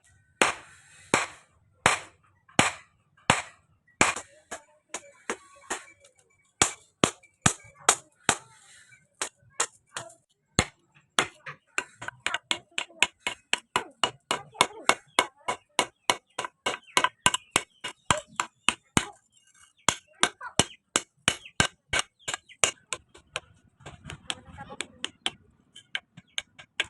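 Hammer blows on steel, struck by hand: about two a second at first, then a faster run of four or five a second, a short pause, then more blows.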